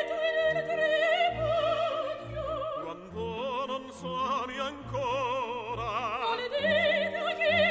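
Operatic singing with wide vibrato over an orchestral accompaniment, the low accompaniment pulsing in a steady beat beneath the sustained sung notes.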